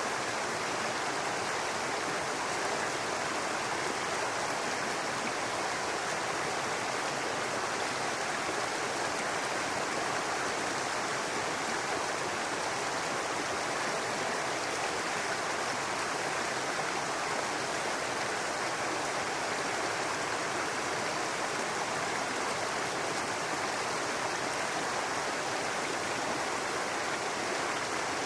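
Brook water running and babbling over rocks in a steady, unbroken rush of flowing water.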